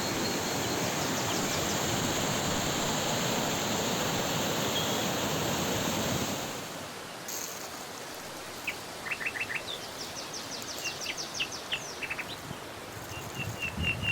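A steady rushing noise for about the first six seconds, then it falls away. After that, small birds chirp in quick runs of short, high notes.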